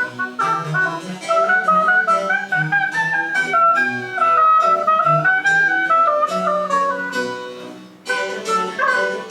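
Chamber ensemble of wind and string instruments playing French Baroque music: a moving wind melody over low bass notes. The phrase tapers off about eight seconds in and a new one starts straight after.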